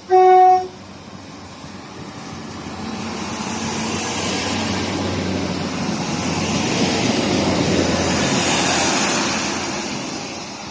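A train horn gives one short, loud blast, then a passenger train passes, its rumble building to a peak and fading away near the end.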